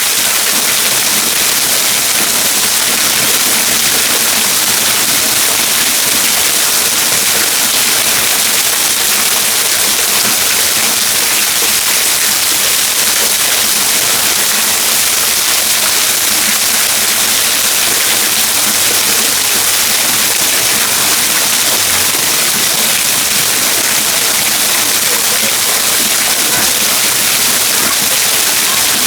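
Waterfall rushing and splashing in a loud, steady, unbroken roar of falling water.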